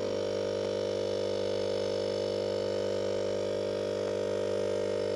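Rewound fridge compressor motor running with a steady electrical hum, after its burnt, shorted winding was repaired.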